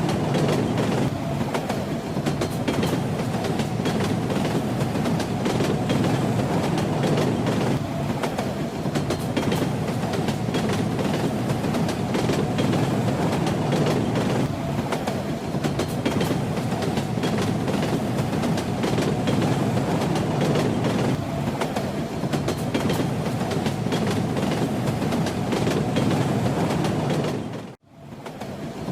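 Moving train running steadily: a dense rumble with the wheels clacking over the rails. The sound cuts out for a split second near the end and comes straight back.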